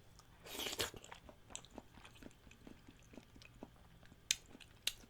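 A person chewing food close to the microphone, faint, with small wet mouth clicks. A short hiss comes about half a second in, and two sharper clicks come in the last second.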